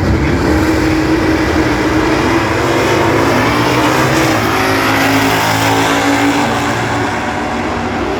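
Drag-racing muscle cars, a Chevy Nova and a Plymouth Road Runner, running at full throttle down the strip. Their engines are loud and steady, coming in sharply at the start.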